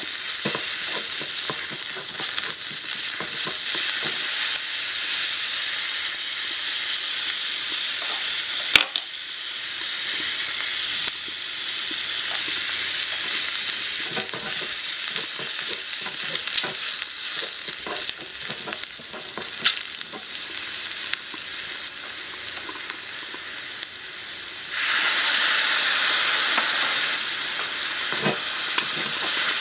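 Sliced shiitake mushrooms sizzling in a small metal wok, with a wooden spatula scraping and tapping against the pan as they are stirred. There is one sharp knock about nine seconds in, and the sizzle grows louder for a couple of seconds near the end.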